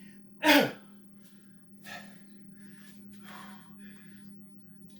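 A man breathing hard while resting between sets of six-count burpees: one loud gasping exhale that falls in pitch about half a second in, followed by several quieter breaths.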